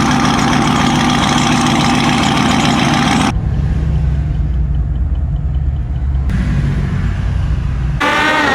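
Motor vehicle engine and road noise, changing abruptly twice: a bright, full noise at first, then a muffled low rumble from about a third of the way in, then a brighter noise again near the end.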